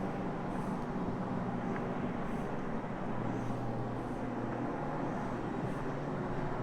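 Carpet-cleaning floor machine running steadily as it scrubs the carpet with a pad, a continuous motor hum with a faint recurring swish.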